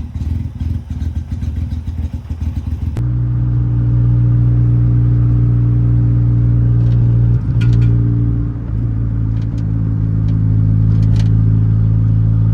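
Turbocharged Honda Civic engine running on newly fitted 1000cc injectors while it is being tuned: an uneven, choppy idle for about three seconds, then, after a cut, a steady engine drone at constant pitch with a few light ticks.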